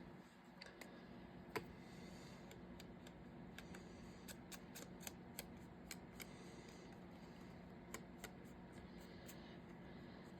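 Small scissors snipping, a quiet run of sharp irregular clicks as paper sticker stock is fussy cut closely around a figure.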